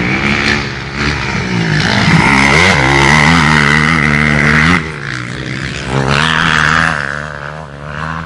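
Motocross bike engine running hard under throttle, its pitch rising and dipping with the shifts. It is loudest through the middle, drops back about five seconds in, swells again a second later and fades near the end.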